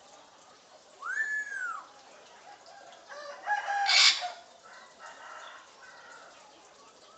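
African grey parrot calling: a single whistle that rises and falls about a second in, then a longer, louder call a couple of seconds later that ends in a harsh squawk.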